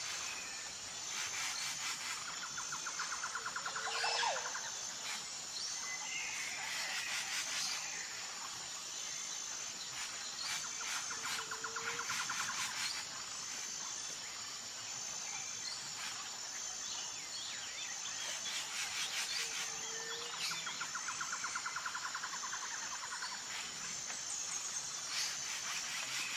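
Natural outdoor ambience of birds calling and insects chirping, over a steady, fast-pulsing high insect trill. A group of trills and chirps recurs about every eight seconds, as in a looped ambience track.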